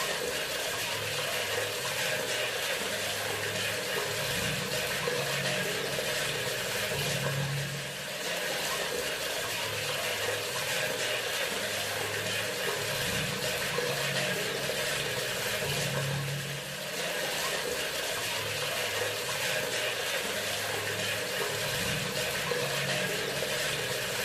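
Water running steadily from a bathroom sink faucet, with a low pulsing hum underneath. The flow dips briefly in loudness about every eight seconds.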